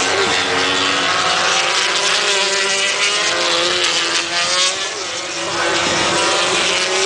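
Racing motorcycles running at speed on the track, several engine notes overlapping and rising and falling in pitch as the bikes pass.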